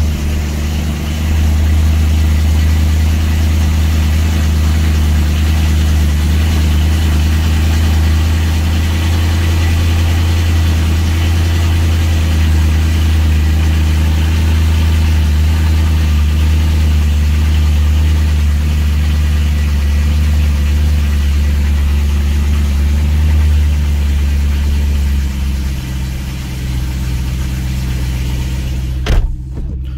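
BMW M3 engine idling steadily just after a cold start, a deep even drone. It gets slightly quieter about 25 seconds in, and a single sharp knock sounds near the end.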